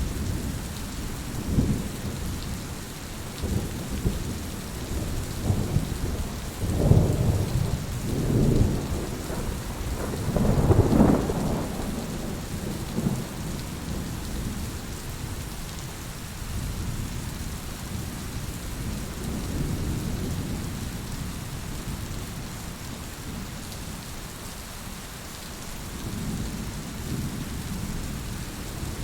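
Heavy rain falling steadily, with rolling thunder rumbling underneath. The rumbles are loudest about a quarter to a third of the way in, then ease to softer swells.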